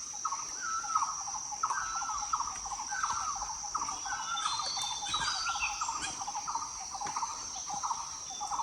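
Forest insects: a steady high-pitched insect drone, with a short chirping call repeated about every two-thirds of a second and a few faint higher chirps.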